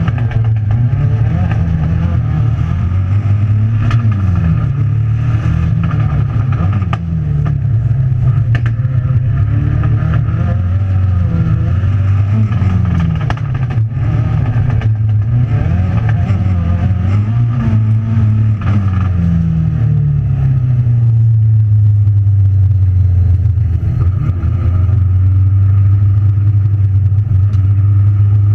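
Racing car engine heard from inside the cabin, its revs repeatedly rising and falling as the driver accelerates and shifts. For the last several seconds it holds a steady note, with occasional knocks over the engine.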